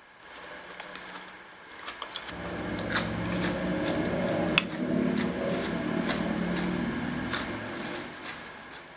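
Close-up mouth sounds of chewing a mouthful of hummus-covered vegetables: wet clicks and smacks scattered throughout. Under them a low hum swells from about two seconds in and fades again near the end.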